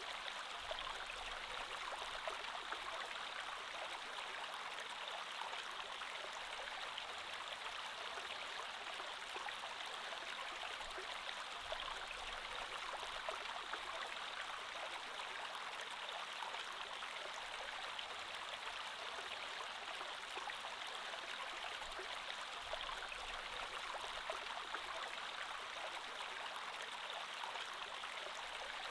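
Creek water flowing steadily: an even rushing sound that holds the same level throughout.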